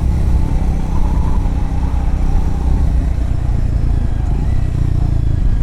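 Triumph Scrambler motorcycle riding along a gravel road, its engine running steadily under way.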